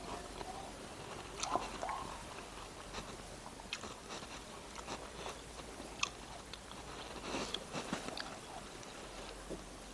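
A person chewing and biting food close to the microphone, with irregular soft crunches and wet mouth clicks, a little busier about three quarters of the way through.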